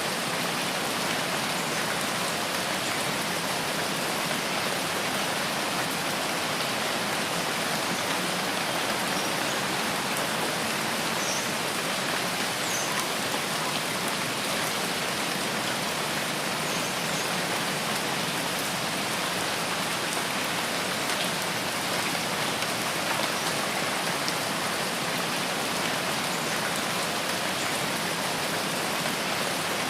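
Steady rain falling in a forest, an even, unbroken hiss of drops that holds at the same level throughout.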